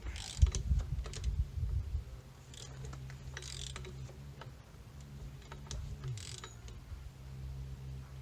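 Metal clunks and ratchet clicks as a stiff engine is cranked back and forth by hand with a wrench on a bolt in the crankshaft pulley. The crank gives way in sudden jerks, the owner blaming a little rust on the piston rings. The clunks are loudest in the first two seconds, then give way to lighter clicks.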